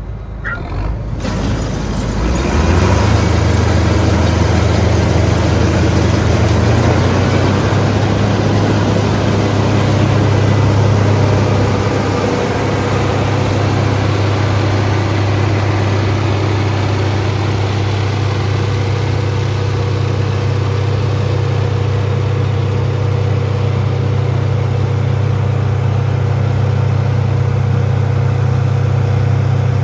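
Large farm machinery engine running steadily, building up over the first few seconds and then holding at a steady low hum.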